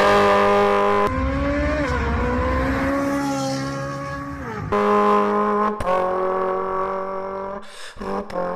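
Straight-piped car engine revving, the exhaust note dropping in pitch as the revs fall at the start and then holding high and fairly steady with small rises and dips. The sound cuts off abruptly and restarts several times, as separate clips spliced together.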